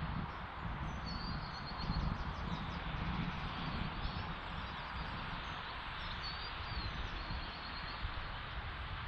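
Wind buffeting the microphone in gusts, with small birds singing short runs of high chirps several times.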